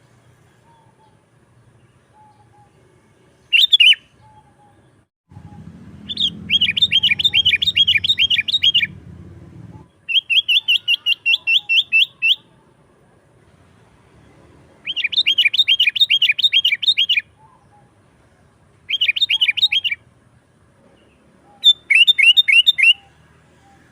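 Sooty-headed bulbul (kutilang) calling in bursts of rapid, evenly repeated chattering notes, about seven a second, six bursts in all of one to three seconds each. A low rumble runs underneath from about five to ten seconds in.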